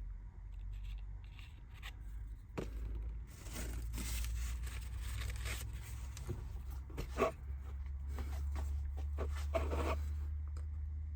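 Small laser-cut model-kit parts being handled and fitted: irregular scraping and rustling with light clicks, a sharper click about seven seconds in, over a low steady hum.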